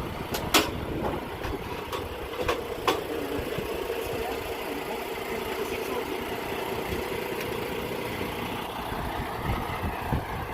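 Semi truck's diesel engine running steadily, heard from inside the cab, with a few sharp knocks or rattles in the first three seconds.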